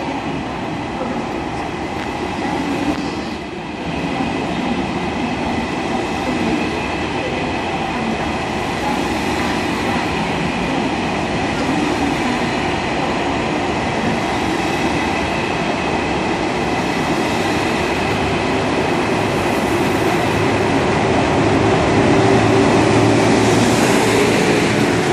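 KTX high-speed train rolling along the platform as it pulls out of the station, a steady rumble with a faint constant high whine, growing louder over the last few seconds.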